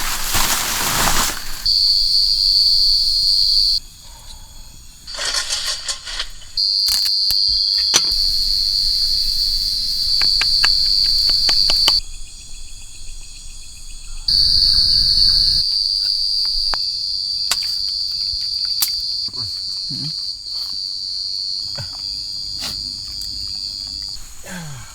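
Forest insects droning: one steady high-pitched buzz that cuts in and out abruptly three times, with a few scattered clicks between.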